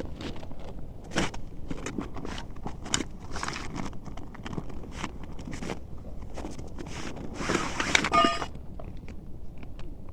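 Irregular rustling, crunching and footsteps on dry forest ground while a tent and its gear are handled during pitching, with a louder scrape about eight seconds in.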